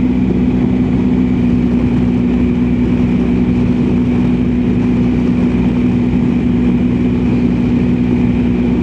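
BMW R1250GSA's boxer-twin engine running at a steady cruise, one even drone without changes in pitch, under a constant rush of wind and road noise.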